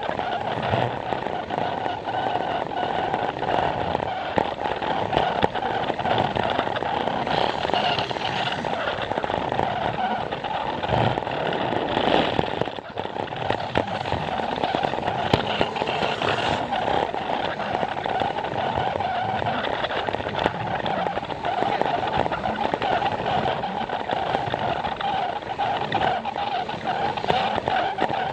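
Plarail toy train running on plastic track: a steady whine from its small battery motor and gears, with rapid clicking of the wheels over the track joints.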